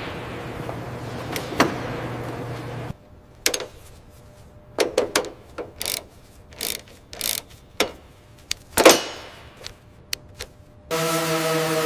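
A steady hum, then a run of separate sharp mechanical clicks and knocks, including one longer falling swish. Near the end a steady droning hum with a clear pitch begins.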